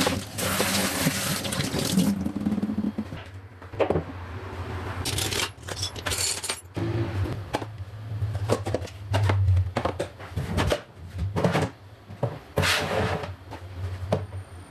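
Kitchen cleaning sounds: a tap runs for about the first two seconds, then stops. Scattered knocks and clicks follow, with a few short scrubbing or wiping noises.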